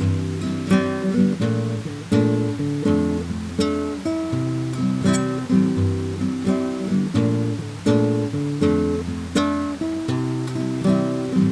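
Acoustic guitar music: plucked chords and single notes in an unhurried, repeating pattern, each one ringing on and fading before the next.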